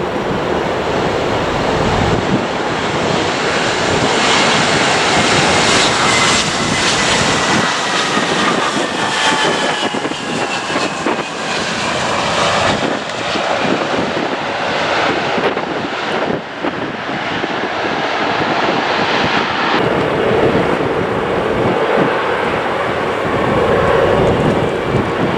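Jet engines of an arriving Airbus A320 airliner running, with a whine that falls in pitch midway. About twenty seconds in, the sound cuts to a second arriving jet airliner, an Airbus A321.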